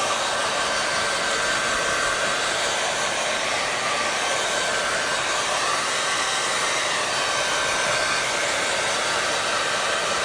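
Hair dryer blowing steadily: an even rush of air with a faint steady whine from the motor.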